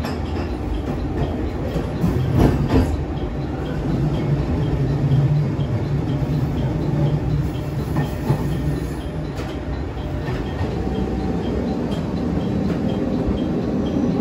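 KTR700 diesel railcar running and slowing into a station, heard from inside the cab: a steady low engine and running hum, with a few clacks from the wheels over rail joints or points.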